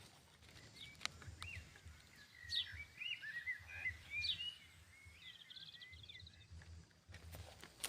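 Birds chirping: a run of short whistled calls that rise and fall, thickest through the middle, with a brief trill about six seconds in.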